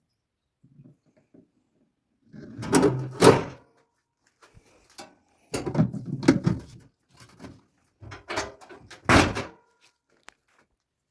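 Three separate bursts of knocking and clatter, a few seconds apart, typical of heavy metal parts being handled and set down on a workshop bench.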